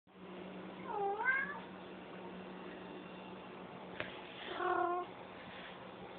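Russian Blue cat giving two short trilling "Rrrrr?" calls: the first, about a second in, dips and then rises in pitch like a question; the second, near five seconds in, holds a steadier pitch. A sharp click comes just before the second call, over a steady low hum.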